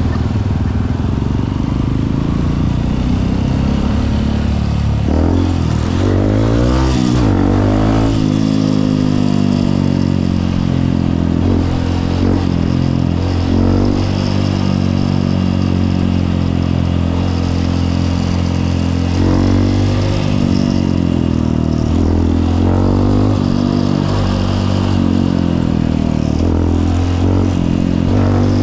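Honda CRF150L's single-cylinder four-stroke engine running under way, its revs climbing and dropping several times as the bike accelerates and slows in traffic.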